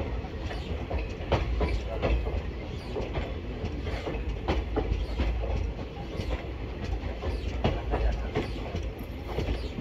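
Passenger express train rolling on the track: steady low rumble with wheels clacking irregularly over rail joints, a few knocks a second.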